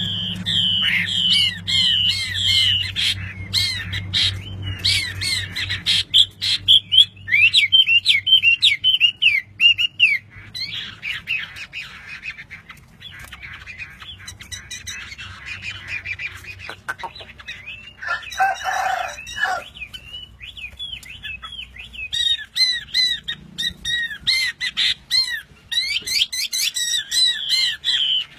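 Oriental magpie-robin (kacer) singing a fast, varied song of chirps and whistles, used as a training song for caged songbirds. About two-thirds of the way through there is a lower, harsher call lasting a second or so.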